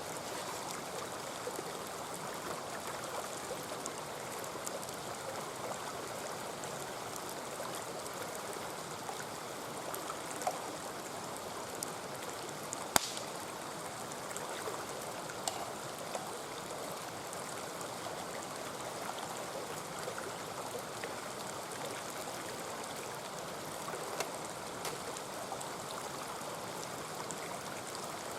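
Mountain stream babbling steadily, with scattered sharp pops and crackles from an open campfire. The loudest pop comes about halfway through.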